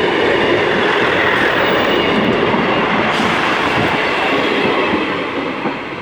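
ScotRail Class 158 diesel multiple unit passing close by, a loud steady rush of wheel-on-rail and engine noise with rapid clatter, beginning to fade near the end.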